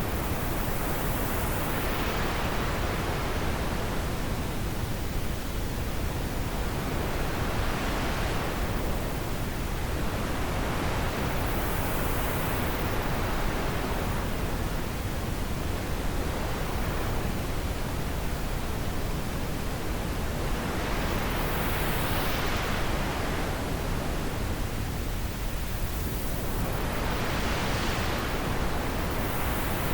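Steady wind, an unbroken hiss that swells and eases every few seconds, growing brighter and then duller as each gust passes.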